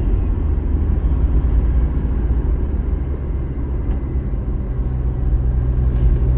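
Car engine and road noise while driving uphill, a steady low rumble; a low engine hum grows a little stronger about two-thirds of the way through.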